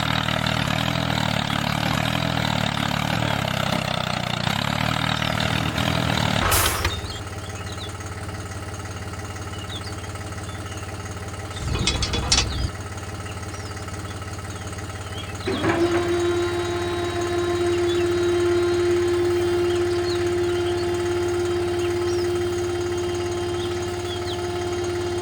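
Small motor of a DIY mini tractor model running steadily. The sound drops and changes character about six seconds in. A steady whine comes in at about fifteen seconds and holds.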